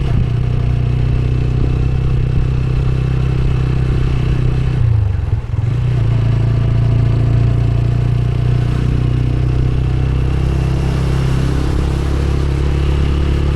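Motorcycle engine running steadily while riding. About five seconds in, the engine note drops briefly and then picks up again.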